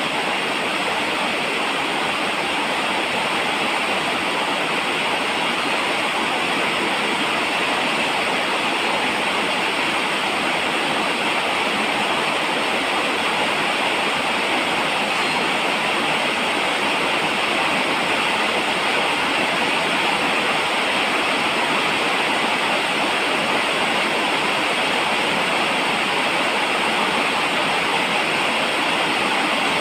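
Steady falling rain: an even, unbroken hiss of rainfall.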